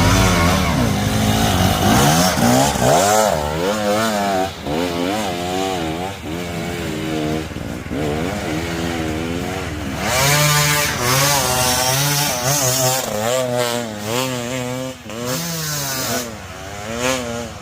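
Enduro motorcycle engine being ridden hard, its revs rising and falling about once a second as the throttle is worked. There is a louder surge about ten seconds in.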